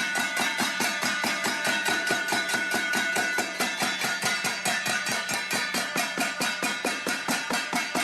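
Steel thali plate beaten rapidly and evenly with a utensil, about six ringing metallic strikes a second.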